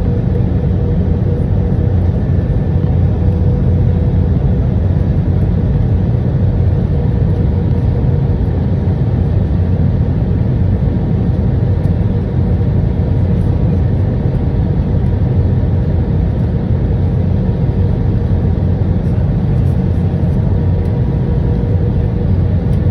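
Steady cabin noise inside an Airbus A319 airliner: an even low rumble of the engines and airflow, with a faint steady hum above it.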